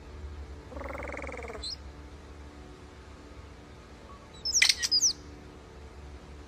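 European starling singing: a buzzy, falling rattle about a second in, then a sharp burst of clicks and high sweeping whistles about four and a half seconds in. A steady low hum runs underneath.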